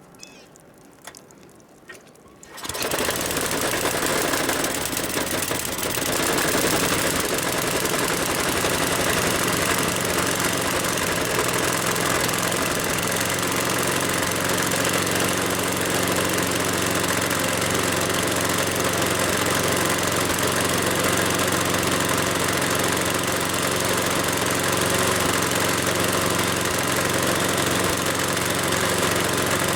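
Snowblower's small gasoline engine, which comes in suddenly about two and a half seconds in and then runs steadily and loudly.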